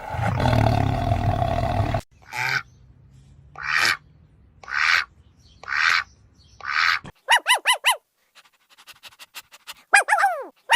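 A run of different animal calls: a rough, roar-like call, then five breathy calls about a second apart, then groups of four quick falling chirps with faint clicks in between.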